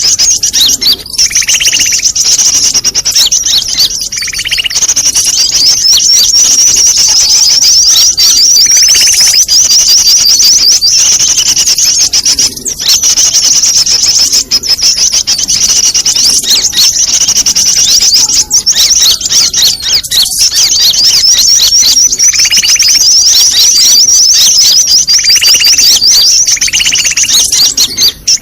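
Bird-lure recording of many small songbirds calling at once, a dense, loud chatter used to draw birds in for trapping. A continuous high, rapid trilling runs throughout, with shorter, lower calls breaking in at irregular intervals.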